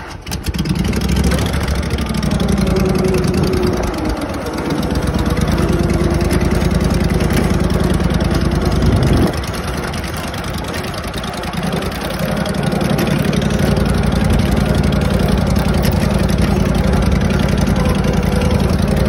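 Tractor engine running loud and steady under way, coming up about half a second in and easing off briefly twice before picking up again.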